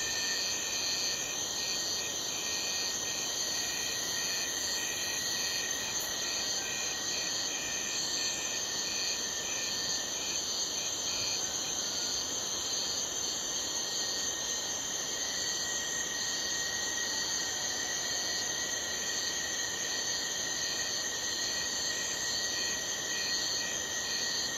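Night chorus of crickets: several steady high trills at different pitches layered together, with a rhythmic chirping of about two pulses a second running over them.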